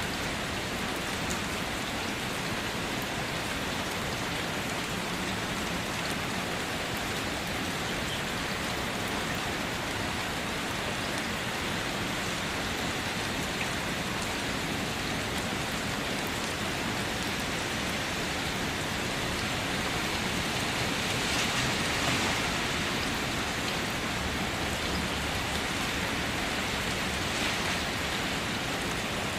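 Steady rain falling on leaves and surfaces, an even wash of noise with scattered drop ticks, swelling briefly a little past two-thirds of the way through.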